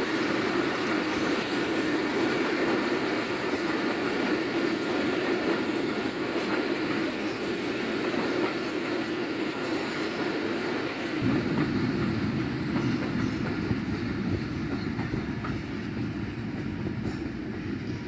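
Passenger train coaches rolling past on the track: a steady rumble of wheels on rail, with a deeper low rumble coming in about two-thirds of the way through.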